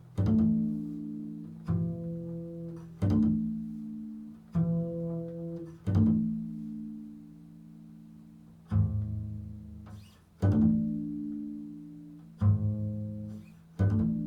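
Improvised music: about nine low plucked string notes, spaced a second or more apart, each one struck sharply and left to ring and fade.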